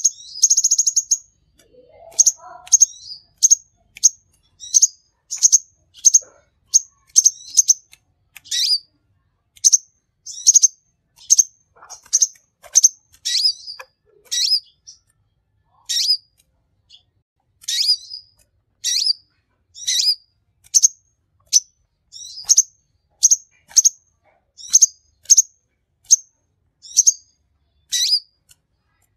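Kolibri konin (brown-throated sunbird) singing: a long run of short, sharp, high chirps, about one or two a second, with a brief buzzy trill at the very start.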